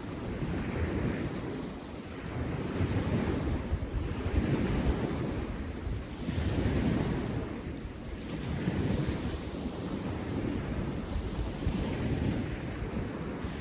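Wind buffeting the microphone outdoors, a low rumbling rush that swells and eases in gusts every couple of seconds.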